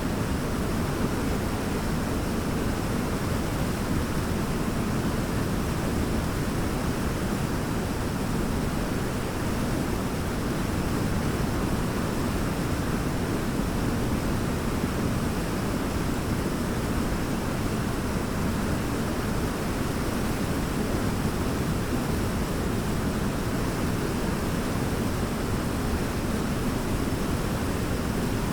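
Large waterfall's water crashing down in a steady, deep, unbroken rush.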